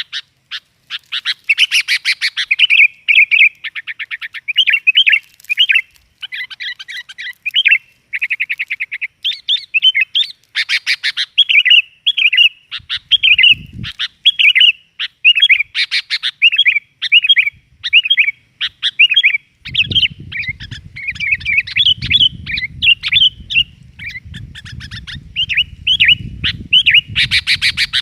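Sooty-headed bulbuls calling busily, a dense unbroken run of short, loud chirping phrases, as used for a bird-trapping lure call. A low rumble joins in about twenty seconds in.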